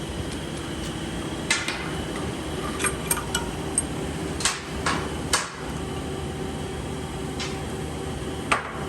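Metal tools and small diesel fuel injector parts clicking and knocking on a workbench, about eight sharp metallic taps scattered through, over a steady shop hum.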